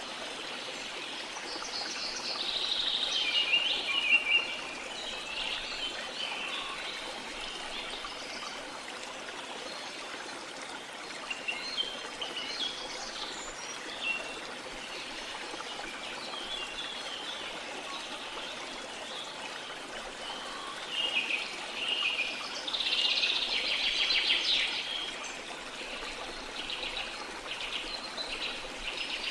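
Small birds chirping and twittering in several bursts over a steady wash of sea water. The bird calls are loudest a few seconds in and again about three-quarters of the way through.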